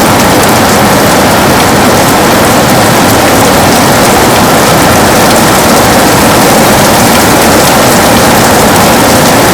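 Heavy rain falling steadily and loudly, a dense hiss with the patter of drops striking a window.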